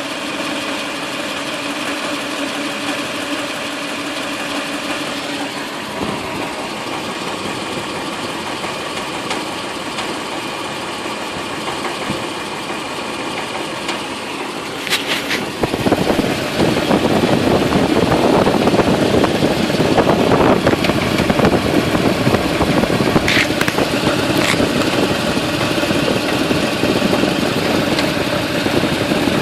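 Toyota 2UZ-FE V8 engine running at idle with a knock that its owner cannot explain. About halfway through it becomes louder and rougher, and there are a few sharp clicks.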